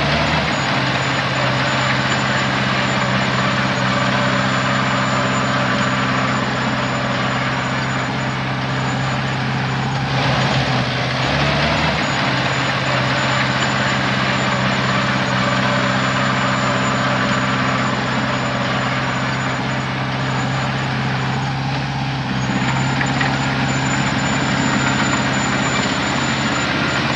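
Heavy diesel engine of earthmoving machinery running steadily, with a little shift in pitch about halfway through.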